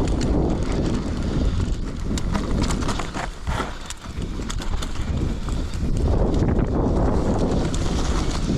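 Mountain bike riding fast downhill over rough ground. Wind rumbles on the microphone, with a run of quick clattering knocks and rattles from the bike and tyres. The noise eases briefly a few seconds in.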